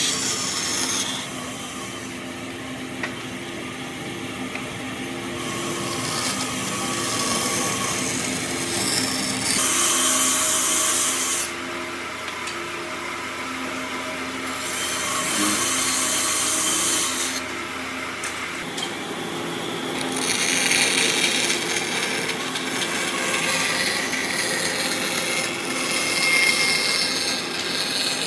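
A power tool working wood, with a steady motor hum underneath. A high hiss of cutting or abrading starts and stops in several stretches of a few seconds each.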